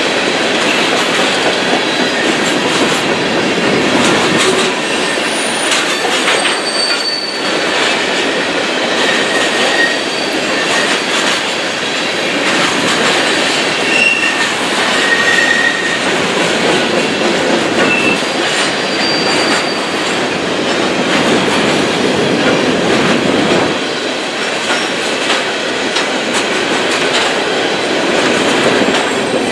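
Freight train cars rolling past, a steady loud rush of steel wheels on rail with clacking over the joints and brief high wheel squeals now and then.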